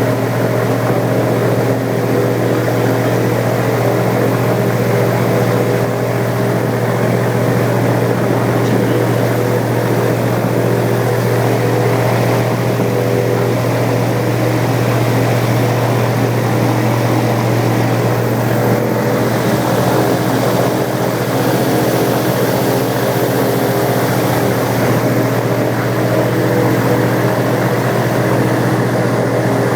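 Airboat's engine and air propeller running with a loud, steady drone, holding an even pitch throughout.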